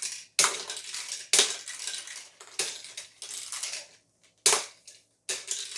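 Small plastic toy balls and game pieces clattering in a tabletop shooting game: five sharp rattling hits at uneven spacing.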